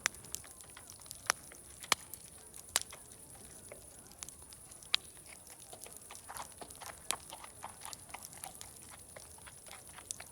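Wood fire crackling, with irregular sharp pops over a soft steady hiss; fainter sounds of distant activity come through in the middle.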